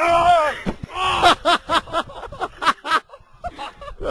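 A person yelling in a long, wavering cry, then a burst of rapid laughter, about five pulses a second, and another short yell at the end.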